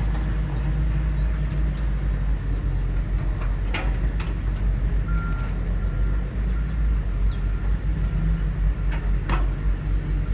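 Construction machine engine running steadily with a low rumble. Around the middle there is a run of short, evenly spaced beeps, and there are two sharp clicks.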